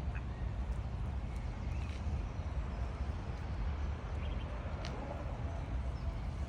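Outdoor ambience: a steady low rumble with a few faint, short high bird chirps scattered through it.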